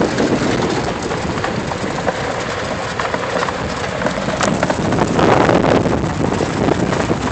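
Vehicle moving along a rough dirt trail, its tyres crunching and knocking over gravel and stones, with wind on the microphone.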